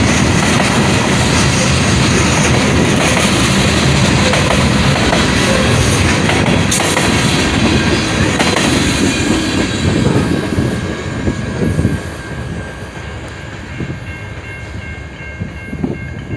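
A train rolling past close by, its wheels running loudly over the rails. About three-quarters of the way through the noise drops off as the last cars go by, and a few steady high tones sound near the end.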